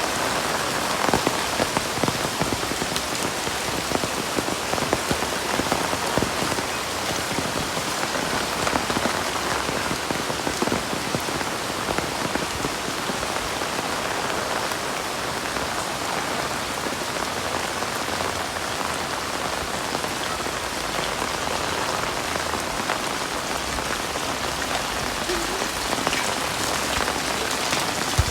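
Heavy rain falling steadily, a dense hiss full of close individual drop impacts that holds at the same strength throughout.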